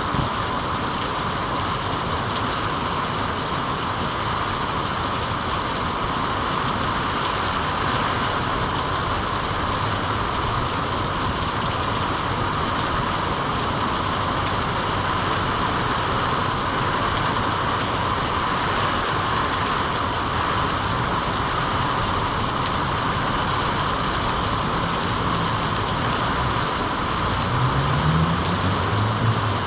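Steady rainfall, an even hiss with no breaks. Near the end a low hum comes in and rises in pitch in steps.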